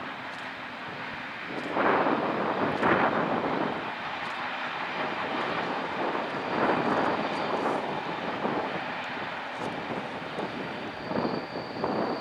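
A locomotive-hauled test train running past on jointed or plain track, its coach wheels and bogies on the rails. The rumble swells and falls away several times as the vehicles go by. A faint high steady whine comes in near the end.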